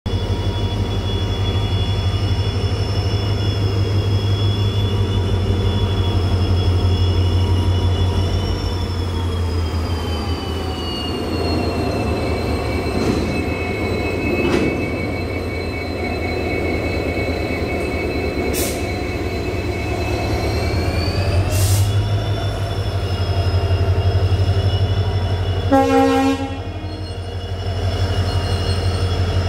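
Indian Railways diesel-hauled freight train of open wagons rolling past with a steady low rumble, high wheel squeal that wavers in pitch, and a few sharp clanks from the wheels. Near the end, as a second diesel locomotive at the rear goes by, there is a short horn blast.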